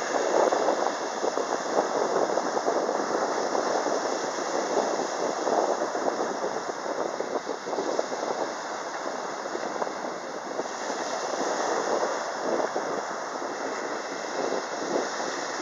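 Sea surf breaking and washing up the shore: a continuous rushing noise that swells and eases.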